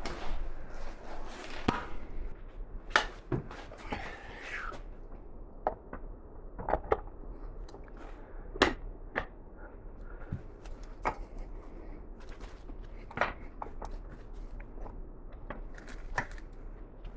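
Scattered light knocks and clicks, about a dozen at irregular intervals, as parts and tools are handled on a workbench, over a faint steady hum.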